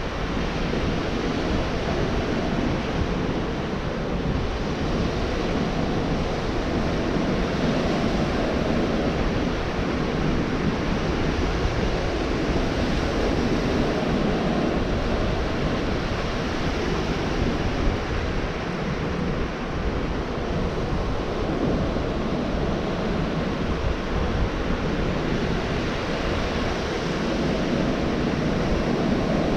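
Gulf of Mexico surf washing steadily onto a beach, a continuous rush of breaking waves with slow swells in loudness, mixed with wind rumbling on the microphone.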